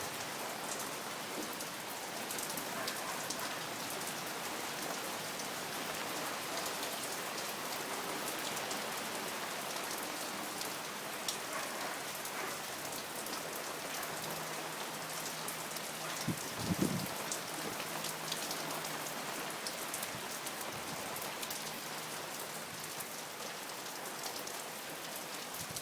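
Steady rain falling: an even hiss full of small drop ticks. A single brief low thump comes about seventeen seconds in.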